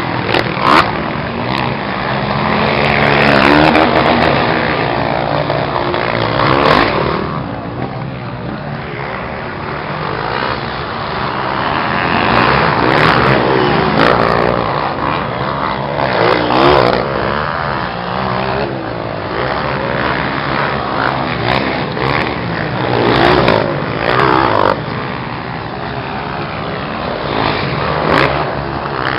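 Motocross motorcycle engines revving hard, the pitch rising and falling again and again as bikes accelerate and shift. The loudness swells every few seconds as riders come through.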